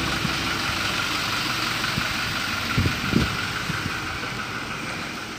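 Steady hum of an idling vehicle engine, slowly fading, with a few soft knocks about two and three seconds in.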